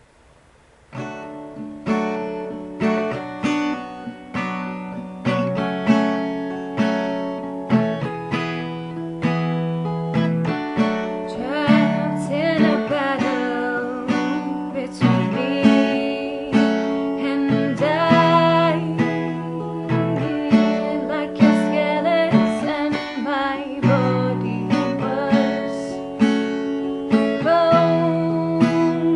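Acoustic guitar strummed in a steady rhythm, starting about a second in. A woman's singing voice joins after about twelve seconds, over the guitar.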